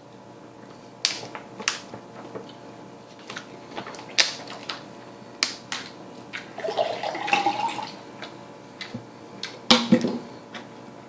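Close-up chewing of a big mouthful of burger: scattered wet lip-smacks and mouth clicks, a longer stretch of chewing noise about two-thirds in, and a pair of sharper smacks near the end.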